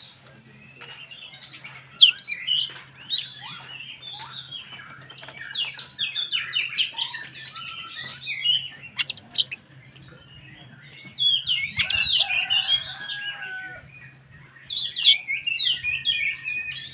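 Oriental magpie-robin (kacer) singing a long, varied song of fast warbled and whistled phrases, with louder bursts about two seconds in, around twelve seconds, and near the end. A faint steady low hum runs underneath.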